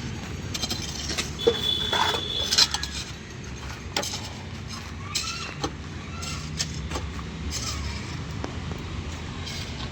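Excavator's diesel engine running steadily, with repeated sharp metal clanks and clinks from the machine at work and a brief high squeal about a second and a half in.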